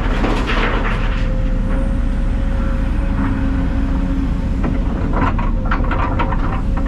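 Heavy diesel engine running steadily, a low rumble with a held tone over it and scattered rattles and knocks, which come thicker near the end.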